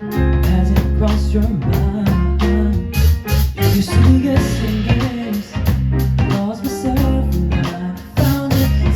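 Live band playing a pop song, with a steady drum beat and a strong bass line.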